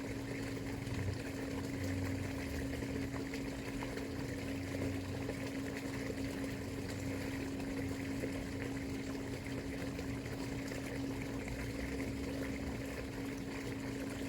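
Water running steadily, an even rushing sound, with a constant low hum under it.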